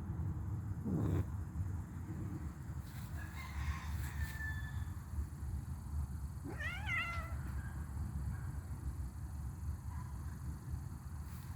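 A kitten meowing: one clear, wavering meow about seven seconds in, with a fainter call a few seconds earlier, over a steady low rumble.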